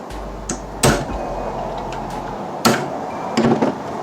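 Sharp metal knocks and clanks from work on a driveshaft U-joint and its bearing caps: two loud knocks about one and three seconds in, with smaller clicks near the end, over a steady low hum.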